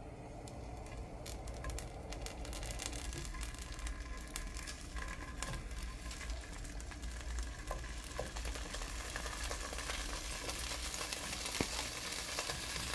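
Cubes of cheese frying in hot oil in a pan, sizzling and crackling. The sizzle builds as more pieces are dropped in one by one.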